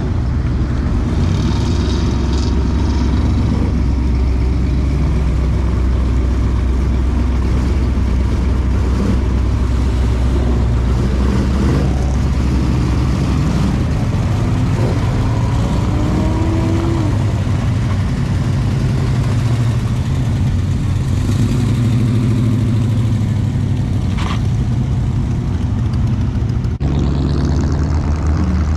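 Car engines running at idle and revving as cars pull away and drive past one after another, with a steady low engine rumble and a few rising revs around the middle.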